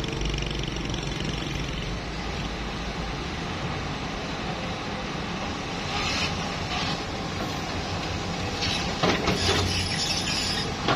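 Loaded timber truck's engine running under load with a continuous rumble. It surges louder about six seconds in and again from about nine seconds in.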